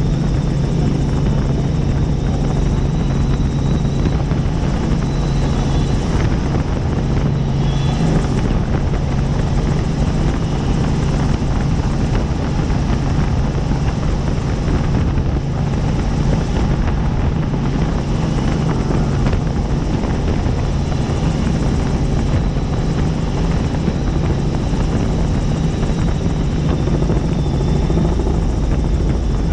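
Helicopter in flight, heard from inside the cabin: a steady, loud drone of the rotor and turbine engine that holds constant.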